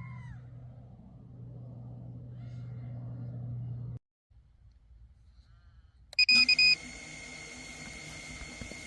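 iFlight Nazgul Eco 6S 5-inch FPV quad: a low steady hum that cuts out suddenly about four seconds in, then after a couple of near-silent seconds a click and a few loud short beeps from the motors, followed by a steady high whine as they idle.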